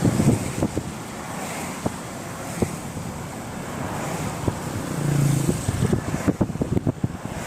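Wind buffeting the microphone in the rain: a steady rushing noise with scattered sharp taps throughout, and a brief low hum a little after five seconds.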